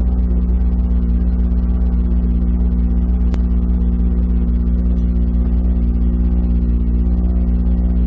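Škoda Fabia R5 rally car's turbocharged four-cylinder engine running at a steady, unchanging pitch, heard from inside the car. A single sharp click about three seconds in.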